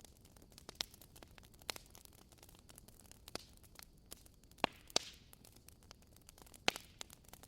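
Wood fire crackling: irregular sharp pops and snaps of burning firewood over a soft hiss, with a louder pop and a short hiss about five seconds in.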